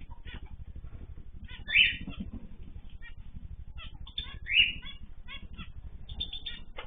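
Pet birds in an aviary calling: two loud, harsh squawks about two and five seconds in, over many short chirps. A low steady hum runs underneath.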